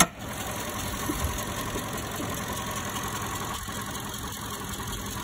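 A Toyota Camry's four-cylinder engine running steadily, after a sharp click at the very start.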